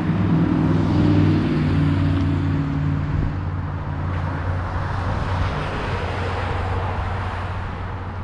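A motor vehicle going by: a low engine hum, loudest in the first seconds, under a rising and falling rush of road noise, then fading away.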